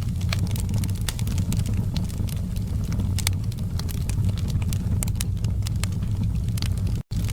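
Wood fire burning in a fireplace: frequent sharp crackles and pops from the logs over a steady low rumble of the flames. The sound cuts out for a split second near the end.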